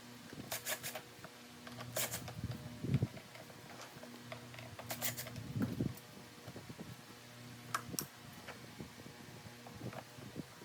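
Scattered clicks and knocks of parts being handled, with a low steady hum that comes in twice for about a second.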